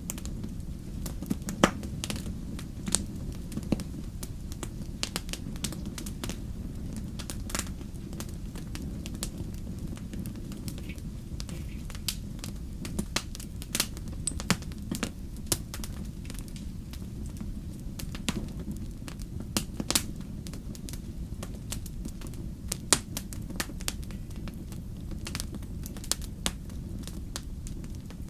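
Wood campfire burning: a steady low rumble of the flames with frequent irregular sharp pops and snaps of the burning wood.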